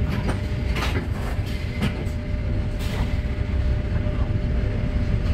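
Steady low rumble inside an RER B commuter train standing at a station platform, with a few short knocks and clicks over it.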